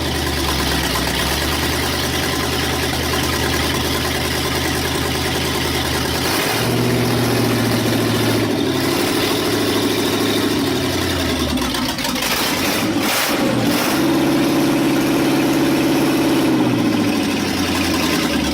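Newly installed crate engine in a 1961 International Harvester Metro Van, running on its first start-up. It idles steadily, is raised in speed about six seconds in, drops back, is raised again at about fourteen seconds, then settles back to idle.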